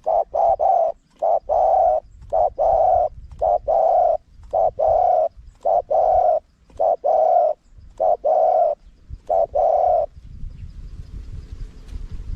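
Spotted dove cooing in repeated phrases of short low coos that each end in a longer note; the calling stops about ten seconds in.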